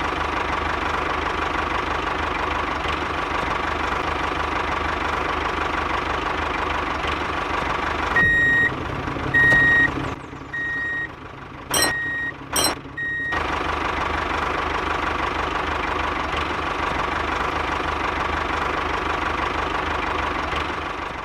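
An engine running steadily. About eight seconds in it is interrupted by a run of short high beeps, about one a second, like a vehicle's reversing alarm, with two sharp clicks among them. The steady running then resumes.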